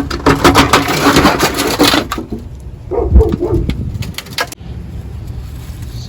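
Crawl-space access door being pulled off its opening: a rapid rattling and scraping for about two seconds, then a few separate knocks about three to four seconds in as it is set aside.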